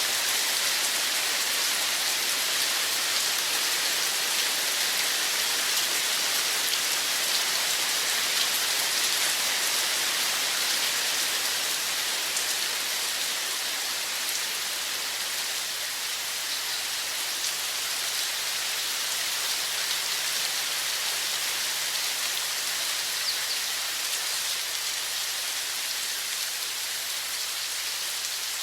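Running water making a steady, dense hiss with faint pattering droplets.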